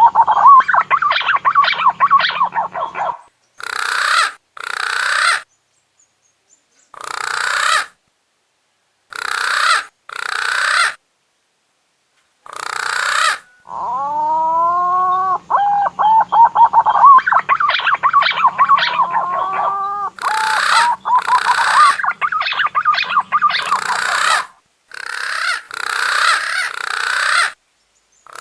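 Punai daun green pigeon lure calls: runs of rising, warbling whistles alternating with harsh rasping notes about a second long, the pattern heard twice.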